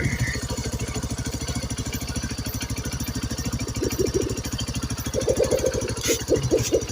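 Motorcycle engine idling with a steady fast low pulsing, growing louder and rougher briefly about four seconds in and again from about five seconds on.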